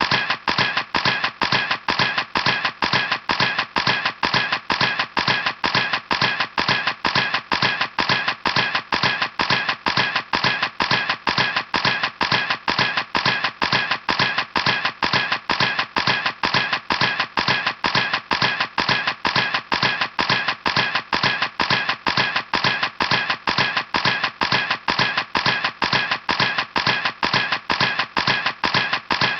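Camera shutter clicking over and over in a steady, even rhythm, about three clicks a second.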